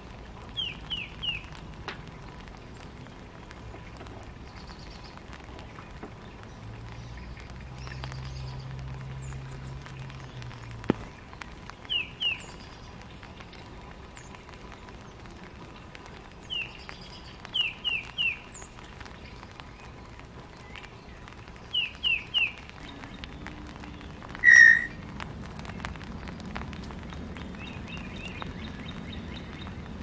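Small songbirds chirping: short sharp chirps, mostly in quick runs of two or three, come every few seconds, with one louder call about two-thirds of the way through.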